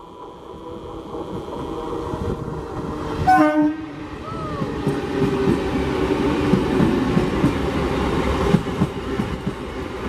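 Electric multiple unit local train approaching and passing close by. It gives a short horn blast about a third of the way in, then the rumble and rhythmic clatter of its wheels over the rail joints grow louder as the coaches go by.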